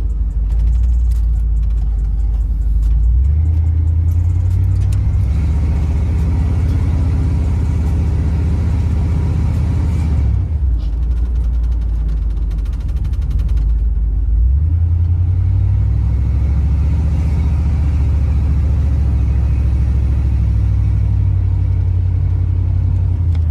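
1988 Chevrolet Caprice (box Chevy) driving, heard from inside the cabin: a steady low engine-and-road rumble whose note climbs about three seconds in and dips briefly twice around the middle. The car has sat for a long time, and the owner is sure it needs a tune-up and new spark plugs.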